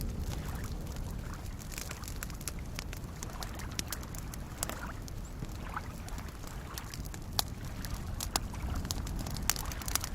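Campfire crackling, with sharp irregular pops that grow more frequent toward the end, over a steady low wash of soft lake waves lapping.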